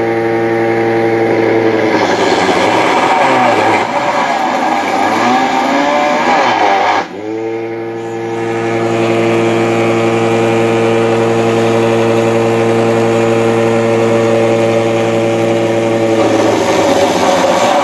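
Small electric motor of a homemade drilling machine running with a steady hum. For a few seconds its pitch wavers unevenly as the bit bites. About seven seconds in it dips briefly, then spins back up and runs steadily.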